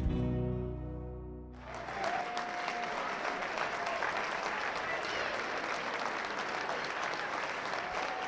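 The last held chord of a song dies away, and about a second and a half in an audience breaks into steady applause.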